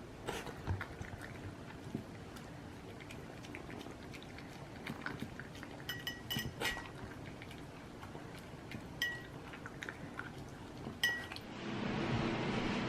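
A dog eating from its bowl after being released, with soft clicks and a few short metallic clinks, like collar tags or kibble striking the bowl. A steady hiss comes in near the end.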